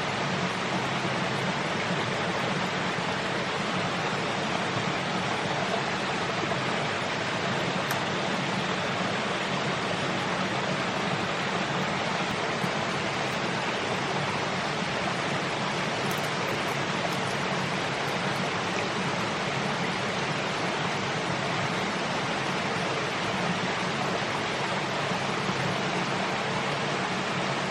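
Steady, even rushing of water with no distinct events.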